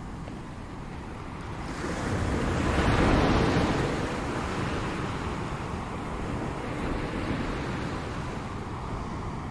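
Ocean surf: a wave builds about two seconds in, breaks loudest around three seconds, then washes out into a long fading hiss.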